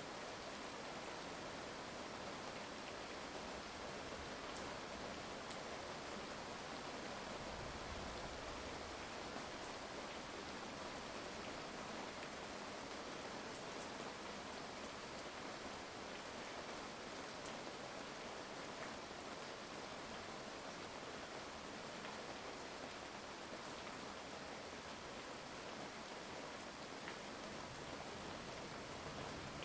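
Steady heavy rain falling and pattering on surfaces, an even hiss with scattered drop ticks and no thunder.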